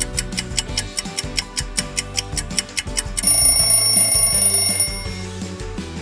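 Countdown timer sound effect ticking rapidly over background music. About three seconds in, as the count runs out, an alarm rings for about two seconds and then fades.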